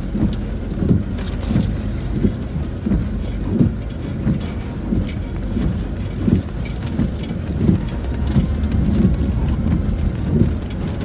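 Cabin noise of a Land Rover Discovery 4 creeping down a rough, wet track under hill descent control: a steady low rumble with irregular knocks and bumps from the suspension and tyres, and rain tapping on the roof and windscreen.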